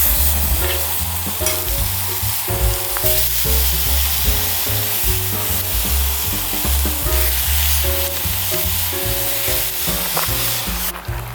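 Food sizzling as it fries in a pan, under background music with a bass line and melodic notes. The sizzle thins out near the end.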